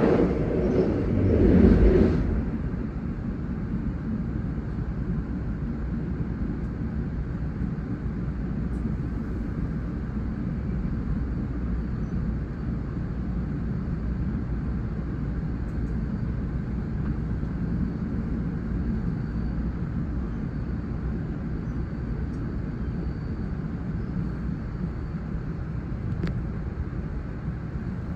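A passing train rushes by close alongside and cuts off sharply about two seconds in. After that comes the steady low rumble of a GO Transit commuter train rolling along the track, heard from inside the coach.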